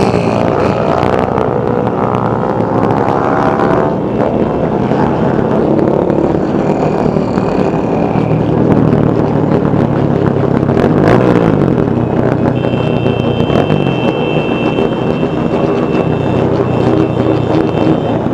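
Many motorcycle engines running together, several revving up and down over each other. In the last third a steady high-pitched tone sounds on and off.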